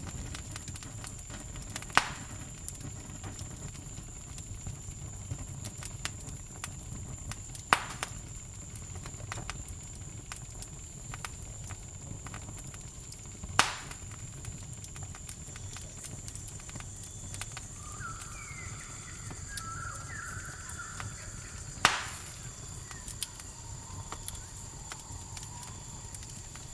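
Campfire crackling with a low steady rumble and many small snaps, broken by four loud sharp pops, a few seconds apart. A steady high cricket trill runs underneath, and a few short chirps come in about two-thirds of the way through.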